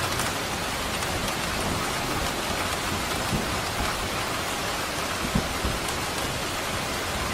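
Steady rain falling on hard surfaces: an even hiss of many drops, with a couple of brief low thumps a little past three and five seconds in.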